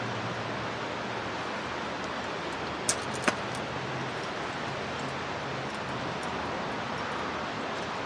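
Steady outdoor rushing noise with a faint low hum, broken by two sharp clicks close together about three seconds in.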